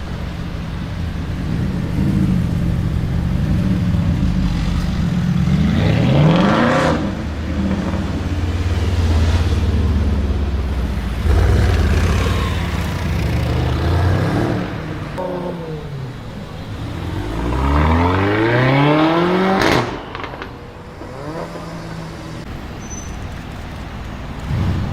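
Loud car exhaust as the engine revs up and drops back several times. Near the end it runs up in a long rising pull that cuts off sharply with a crack.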